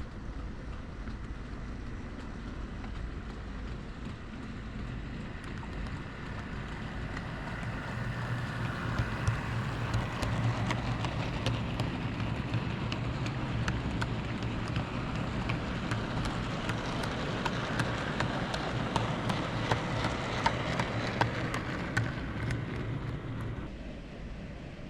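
OO gauge model train running along the track: a steady electric-motor hum and rapid clicking of wheels over rail joints, growing louder as it comes near and dropping away near the end.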